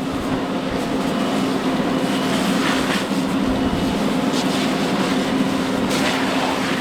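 An engine running at a steady pitch, with a rushing noise over it and a few faint crackles.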